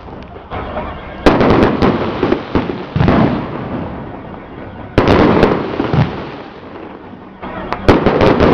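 Strings of firecrackers going off in dense crackling volleys. Three loud bursts start sharply, about a second in, at about five seconds and near the end, and each dies away into scattered pops.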